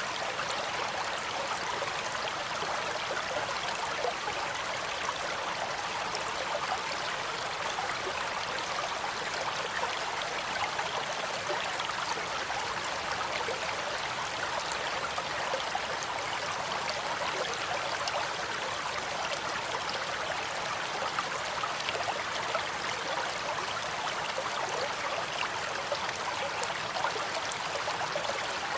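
A shallow stream flowing steadily, a constant rushing babble with fine trickling and splashing detail.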